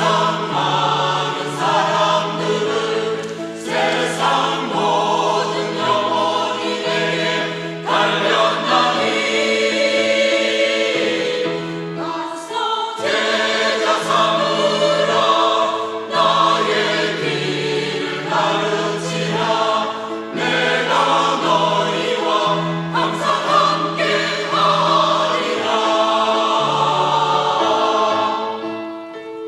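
Church choir singing a choral anthem in several parts, with sustained notes over a low bass line; the singing tails off near the end.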